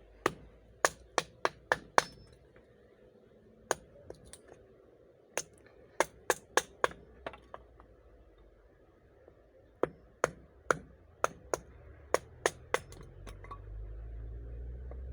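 Dry heartwood of a log being split into kindling: a run of sharp wooden knocks as a blade strikes and splits the wood, in irregular bursts of several quick strikes. A low rumble rises near the end.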